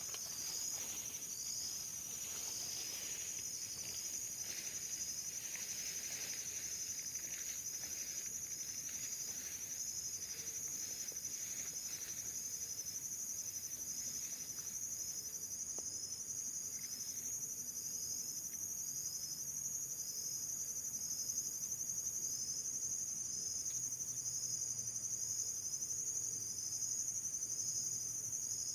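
Insects calling in a steady chorus: a continuous high buzz with a short chirp repeating about once a second.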